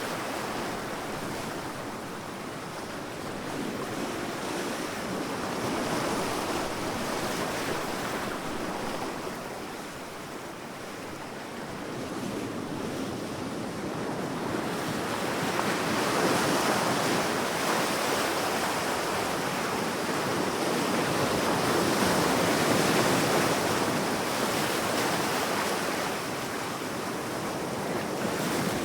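Sea waves breaking and washing on a beach, a steady surf that swells and ebbs slowly, louder in the second half.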